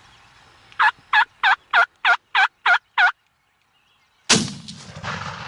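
A series of eight loud, evenly spaced turkey yelps, about three a second, then about four seconds in a single shotgun blast that kills the turkey.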